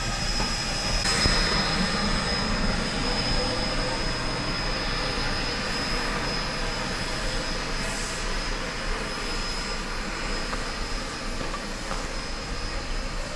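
Steady hiss and rush of steam from Slim Princess No. 18, a Baldwin 4-6-0 narrow-gauge steam locomotive, with a thin high whistling tone over it that comes in about a second in and fades out later.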